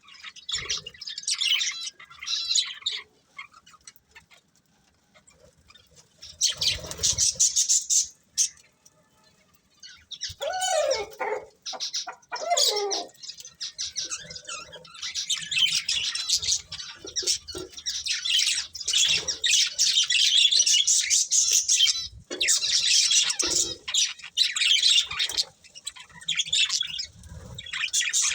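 Budgerigars chattering and chirping in high, rapid bursts, with short pauses between runs and a busy stretch through the second half. A few lower, falling calls stand out about ten to thirteen seconds in.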